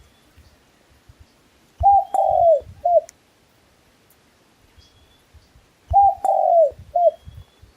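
A dove cooing: two three-note phrases about four seconds apart, each a short coo, a longer arched coo and a short closing coo. A small bird gives faint thin high chirps in between.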